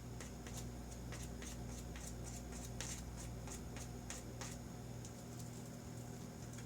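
Irregular light clicks and scratchy ticks, a few a second, over a steady low hum.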